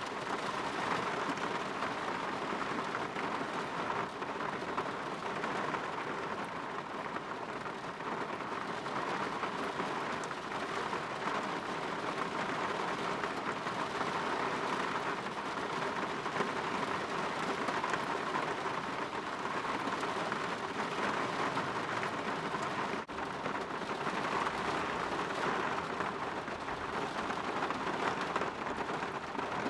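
Steady rain falling on a window, an even hiss with no rhythm or pitch. About three-quarters of the way through it dips for a moment.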